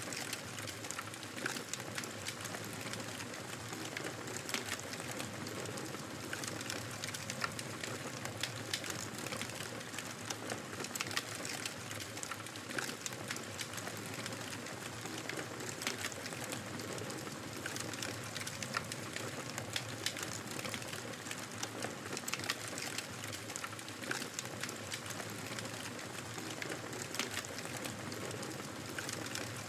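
Wood fire crackling steadily: a continuous soft hiss with frequent small, irregular pops and snaps.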